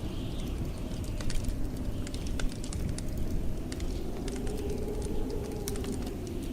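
Wood fire crackling with irregular sharp pops over the low rumble of blizzard wind; a wind howl rises and falls about four to six seconds in.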